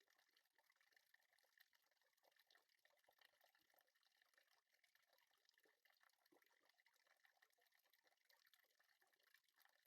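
Near silence: faint room tone with a light, steady crackle.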